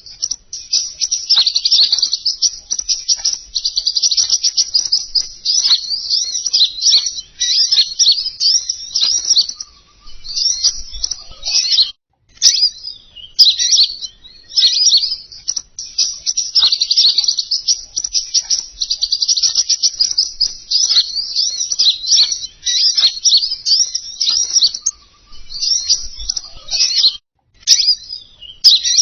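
Bird lure recording of a small songbird, the one sold as 'King Konin', giving rapid, high, twittering chirps almost without pause, with brief breaks about twelve seconds in and again near the end.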